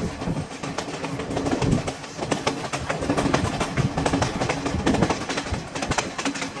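Passenger train running over the rails, heard through an open carriage window: wheel and track clatter with a continuous rattle of sharp, irregular clicks.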